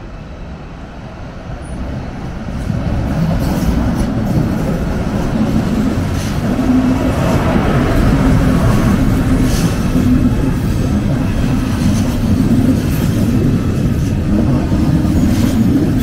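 A train running through a railway station, growing louder over the first few seconds and then holding steady, with a low hum and a few scattered clicks.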